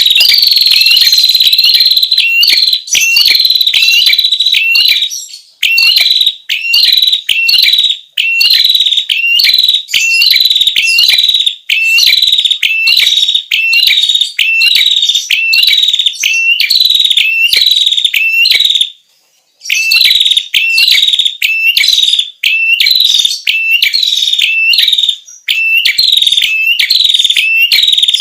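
Recorded song of a prenjak kepala merah (a red-crowned prinia/tailorbird-type songbird), played as a lure call. It is a loud, high-pitched, rapid run of sharp repeated notes, about two a second, with one short break about two-thirds of the way through.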